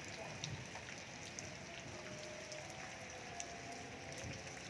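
Steady rain falling, with scattered light taps of drops hitting surfaces.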